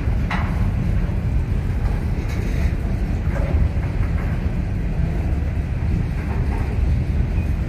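Freight train's covered hopper cars rolling past close by, their steel wheels on the rails making a steady low rumble. A few brief higher-pitched sounds rise over it now and then.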